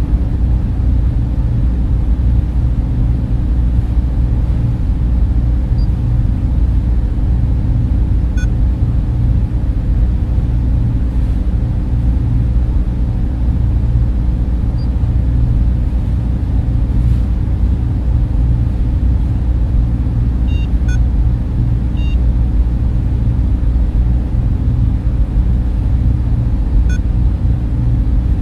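Server room cooling fans running as a steady, loud, deep whirring hum, with a few faint short high blips in the background.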